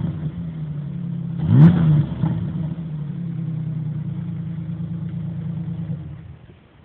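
Ford Ranger FX4's 4.0-litre V6 on its stock exhaust, idling, with one quick rev about a second and a half in that falls back to a steady idle. The engine sound drops away near the end.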